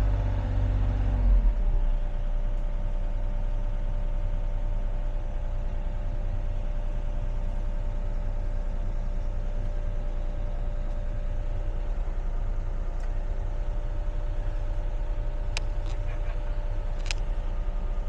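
Excavator's diesel engine running steadily. It is louder for the first second or so, then settles to an even hum. Two sharp clicks come near the end.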